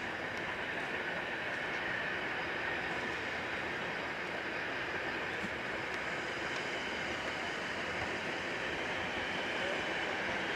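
Steady rolling noise of a heritage railway train running on the rails, with no distinct beats or chuffs.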